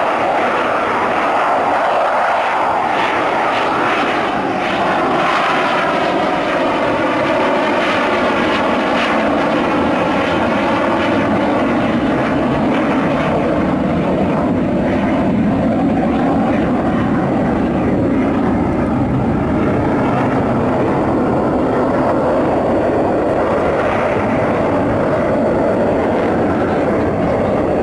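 Sukhoi Su-27 fighter's twin turbofan jet engines, a loud continuous roar during a flying display. Its pitch bands slide slowly down over the first dozen seconds and rise again later as the jet passes and turns.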